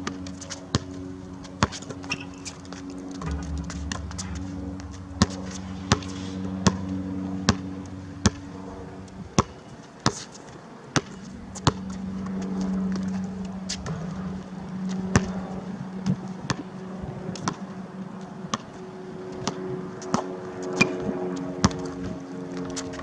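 Basketball bouncing on an outdoor court: sharp bounces at an uneven pace, about one a second, over a steady low hum.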